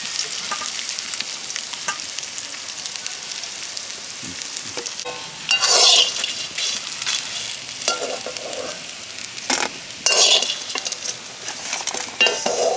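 Thankuni-leaf (Indian pennywort) fritters sizzling as they fry in hot oil, with a steady hiss. A few louder spells of stirring in the pan come about halfway, around ten seconds in, and near the end.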